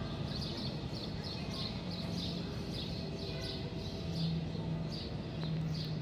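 Birds chirping over and over in short, falling notes, about two or three a second, with a low hum that comes and goes underneath.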